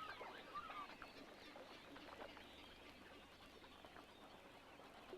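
Faint marsh ambience of waterbirds: a few short calls in the first second, then scattered quieter chirps over a low hiss.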